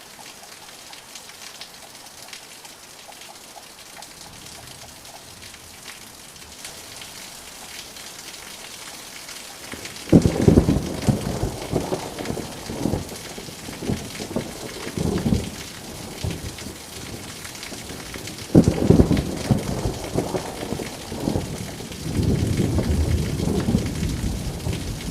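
Steady rain falling, then a sudden loud thunderclap about ten seconds in, followed by crackling rumbles. A second clap comes about eighteen seconds in, and a long low thunder rumble follows near the end.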